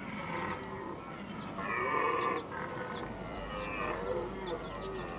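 Red deer stags roaring in the rut, with a long call loudest about two seconds in and further calls after it.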